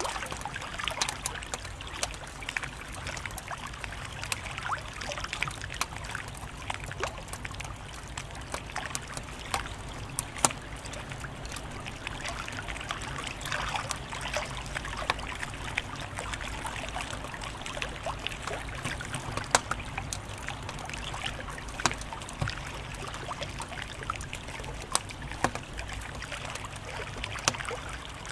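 Wood fire crackling: irregular sharp pops and snaps over a steady hiss of burning.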